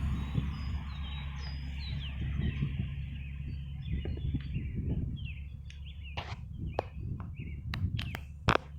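Steady low hum of a large honeybee swarm in flight, with small birds chirping over it. From about six seconds in, several sharp clicks or knocks cut in, the loudest near the end.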